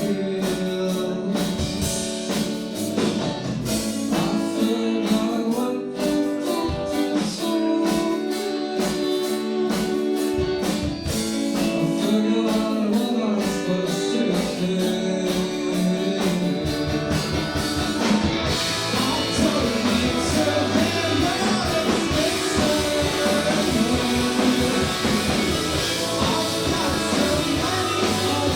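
Live indie rock band playing: electric guitars and drums with singing. About sixteen seconds in the low end thickens and the band fills out louder and denser.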